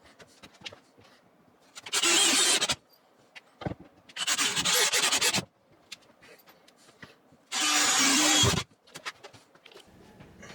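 A power tool run in three short bursts of about a second each, with quieter handling clicks in between.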